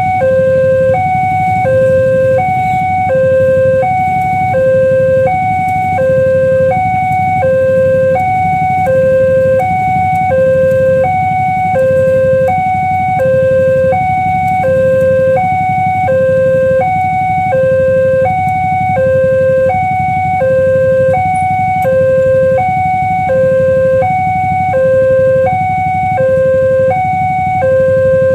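Electronic railway level-crossing warning alarm on Nippon Signal crossing equipment, sounding two alternating tones, high then low, in a steady repeating cycle of about one high-low pair every second and a half, over a steady low rumble.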